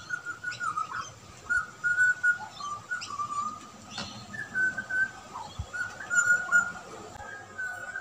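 Butcherbird calling: a steady run of short, clear whistled notes that step up and down in pitch.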